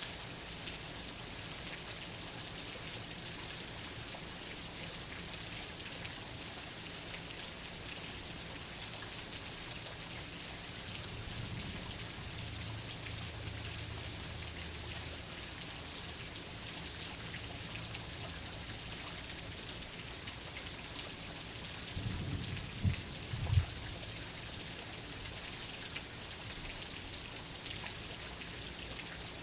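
Steady heavy rain hissing on a surface. A faint low rumble comes about halfway through, and two short, deep thuds follow a few seconds later, louder than the rain.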